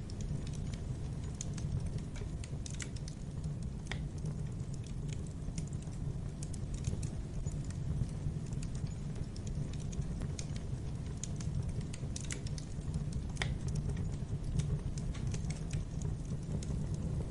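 Wood fire crackling in a fireplace: a steady low rumble of flames with irregular small crackles and snaps, and a couple of louder pops.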